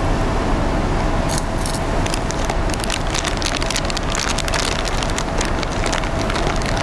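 Steady vehicle engine and traffic noise with a constant hum, and many sharp crackles and clicks over it.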